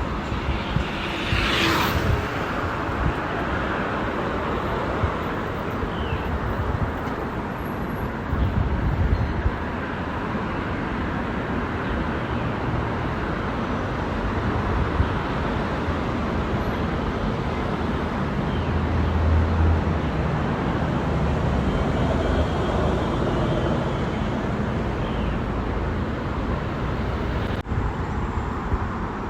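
Road traffic noise: a steady rumble of passing motor vehicles, with a brief hiss about two seconds in.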